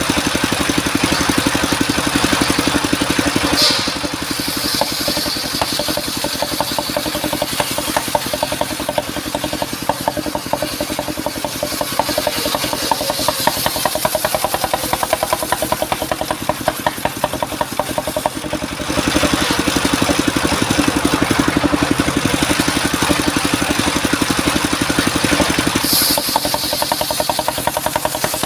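Mobile circular sawmill running, its engine going steadily with a fast even pulse while the blade saws through mahogany. The sound drops a little about four seconds in and comes back up at about nineteen seconds.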